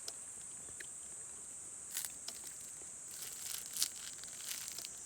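A steady, high-pitched drone of night insects, with scattered sharp crackles and clicks, most of them bunched a little past the middle.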